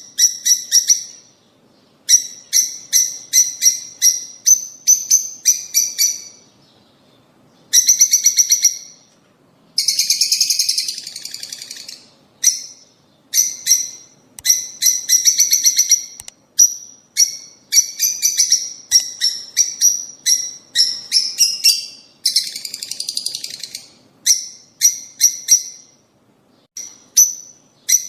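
Lovebirds calling: runs of shrill, rapid chirps several a second, broken by short pauses, with a couple of longer harsh squawks.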